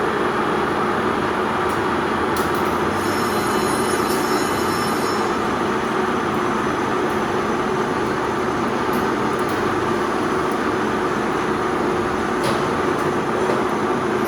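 Metal lathe running: a steady mechanical hum and whir, with a faint high whine a few seconds in and a couple of light clicks.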